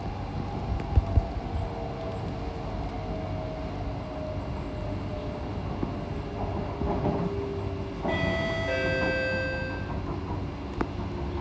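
SMRT C151C train heard from inside the car, running on the rails with a steady rumble. The traction motor whine falls slowly in pitch as the train slows on the approach to Yishun. About eight seconds in, a cluster of steady high tones sounds for roughly two seconds.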